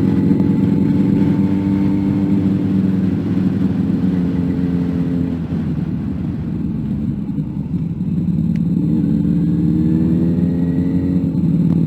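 Car engine and road noise heard from inside the cabin. The engine note drops and quietens through the middle, then climbs in pitch as the car accelerates again.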